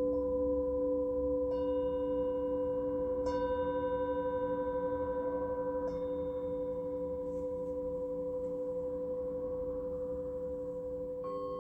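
Singing bowls ringing together in long, overlapping tones with a slow wavering beat. Fresh strikes come about a second and a half in, again about three seconds in and about six seconds in, each adding a brighter ring, and near the end a new bowl is struck with a higher tone.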